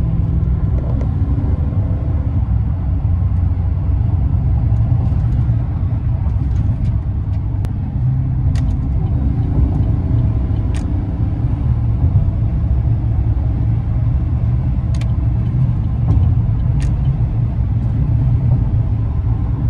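2018 Chevy 2500's 6.0-litre Vortec V8 running under way with road noise: a steady low rumble whose engine note rises and falls a little as the truck drives. A few light clicks.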